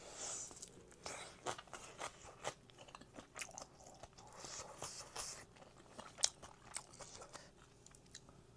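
Close-miked chewing and biting of food, with irregular wet crunches and mouth smacks and one louder crunch about six seconds in.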